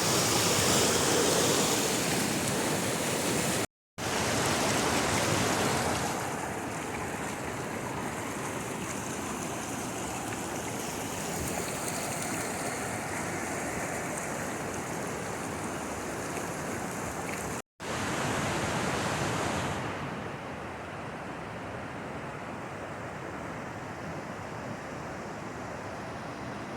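Steady rushing water, an even hiss and roar with no pauses. It cuts out for an instant twice, and each time it comes back loud before settling a little quieter.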